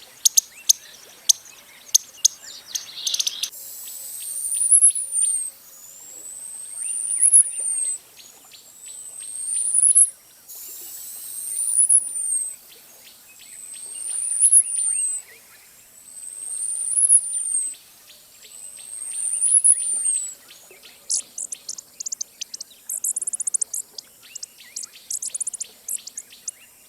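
Costa's hummingbird singing: a high, thin whistle that rises and then falls, given seven times about every two and a half seconds. Bursts of rapid high ticking come at the start and again near the end.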